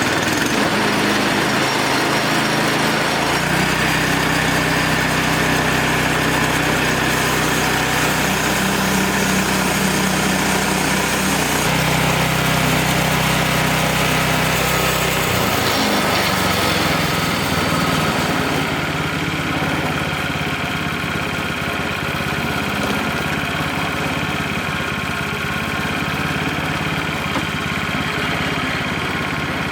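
Small engine of a Wood-Mizer LX25 portable band sawmill running steadily, its low hum shifting a few times, at about 4, 12 and 15 seconds in.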